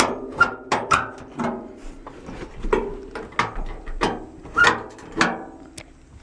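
Irregular metallic clicks and clanks, about two a second, each with a short ring, as the Beetle's sunroof mechanism is taken apart.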